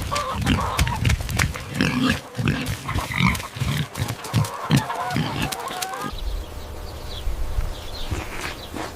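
Pigs grunting, many short grunts in quick succession with higher calls over them; about six seconds in this cuts to a quieter background with a few faint calls.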